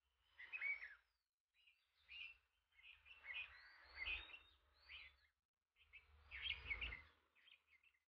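Faint bird chirping in several short bursts of quick chirps.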